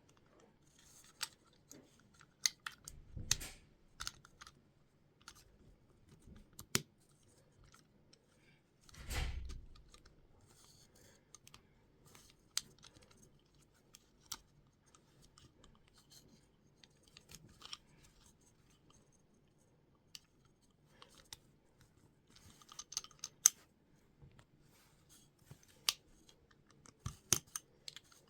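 Plastic Lego pieces being handled and snapped together: scattered small clicks and rattles, with two duller knocks about three and nine seconds in.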